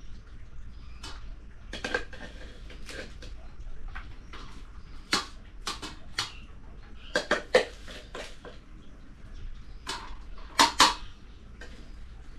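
Dishes and cooking utensils clinking and clattering: a dozen or so sharp knocks at irregular intervals, the loudest a little past halfway and near the end.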